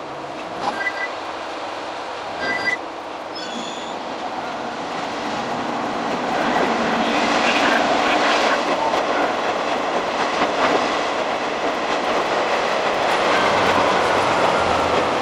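Diesel railcar running along the track, heard from inside the cab; the running noise grows louder from about six seconds in. Two short, high, steady tones sound in the first few seconds.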